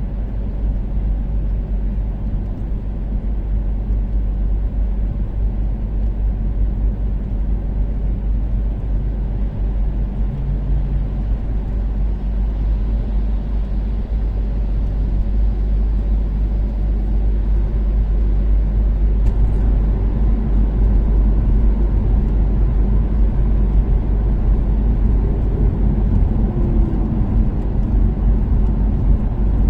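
Toyota Caldina's 3S-GTE turbocharged four-cylinder engine and tyre noise while cruising steadily on an expressway: a deep, steady drone that grows slightly louder a little past halfway.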